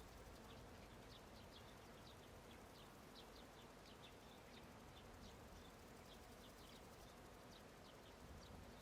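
Faint meadow ambience: scattered short, high chirps come a few times a second at irregular intervals over a soft, steady low background hiss.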